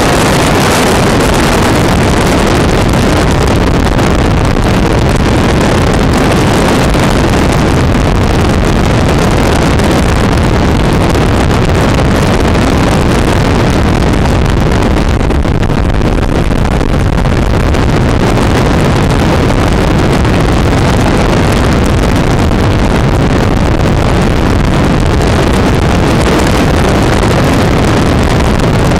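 Loud, steady wind buffeting the microphone of a camera on a moving motorcycle, with the bike's engine blended into the rush of noise.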